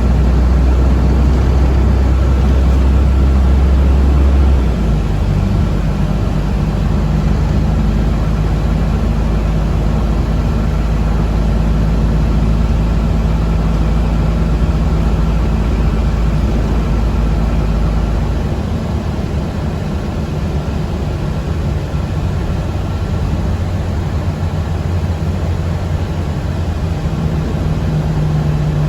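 Steady low running drone of a moving public-transport vehicle heard from inside the passenger cabin, its deep rumble shifting about 5 seconds in and again past the middle, with a faint steady whine above it.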